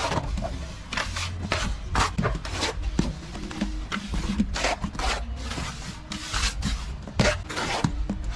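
Plastering tool scraping and rubbing over a wall surface in repeated short strokes, about two a second, over a low rumble.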